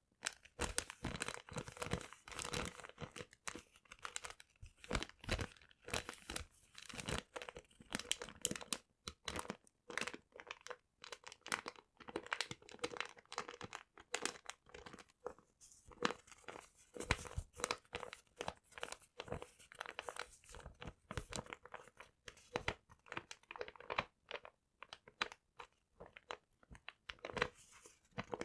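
Paper being crinkled and crunched in the hands: a continuous run of irregular crackles with no steady rhythm.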